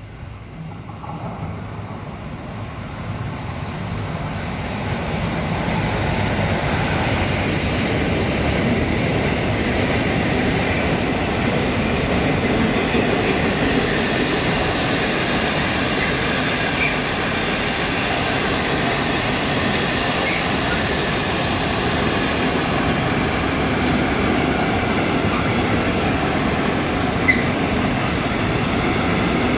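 Container freight train passing close by, its wagons rolling along the rails in a steady wheel-on-rail rumble that builds over the first few seconds as it arrives. Faint short wheel squeals come through now and then, and a single sharp knock sounds near the end.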